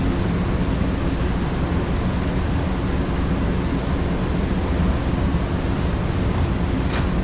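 HO-scale slot cars running on the layout's track, their small electric motors making a steady whirring drone, with a couple of sharp clicks near the end.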